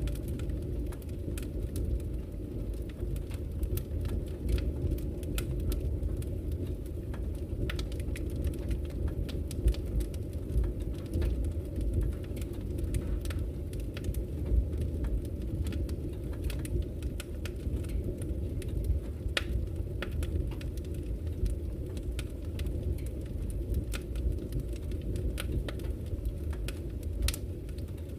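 Wood fire burning in a fireplace: a steady low rumble of flames with frequent scattered crackles and pops from the burning logs.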